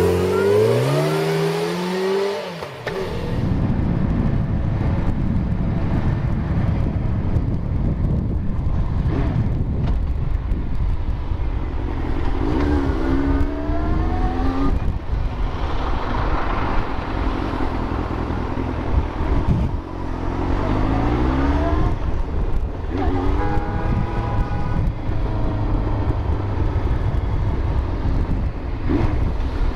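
Yamaha FZ1's inline-four engine heard from the rider's seat over heavy wind rush on the microphone. The engine note falls and rises in the first couple of seconds and eases off near three seconds in, then climbs in pitch in several short pulls of acceleration in the second half.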